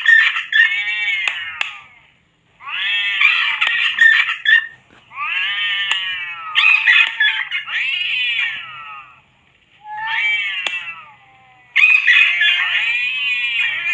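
Cats meowing and yowling: a string of drawn-out, wavering calls, each lasting one to three seconds, with short pauses between.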